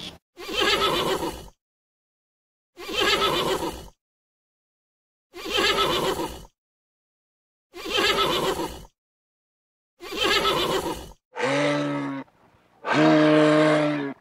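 A horse whinnying five times, each whinny about a second long with dead silence between, like one neigh repeated. Near the end, two deeper, drawn-out calls from a bull moose.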